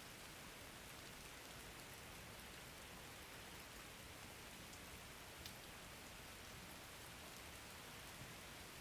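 Faint, steady rain, a soft even patter with a few single drop ticks standing out, one about five and a half seconds in.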